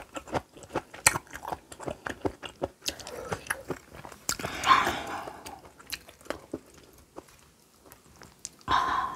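Close-miked chewing of crunchy kimchi: many short, crisp crunches one after another, with a longer rushing sound about halfway through and again at the end.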